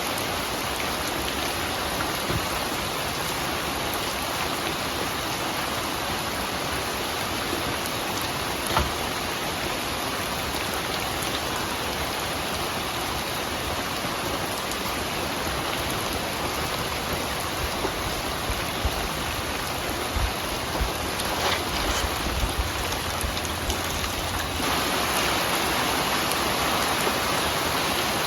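Steady rain falling, with a few separate drops and soft thumps standing out, growing a little louder and brighter about three quarters of the way through.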